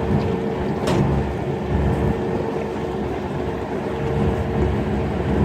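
Motor launch's engine running steadily under way, a low rumble with a held hum over it, with a single sharp click about a second in.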